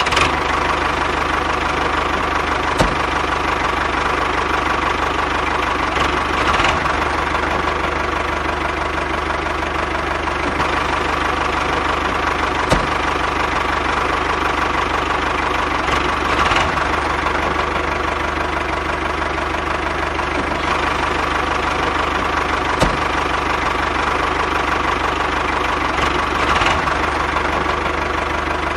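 Tractor engine idling with a steady knocking chug. The same pattern repeats about every ten seconds, like a looped engine recording.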